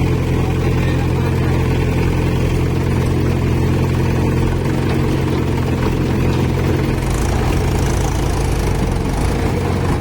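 Diesel engine of heavy machinery running steadily at a constant speed.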